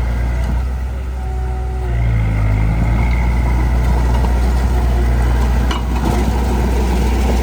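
Heavy diesel engine of earth-moving machinery running under load, its pitch picking up about two seconds in. A short knock comes near the six-second mark.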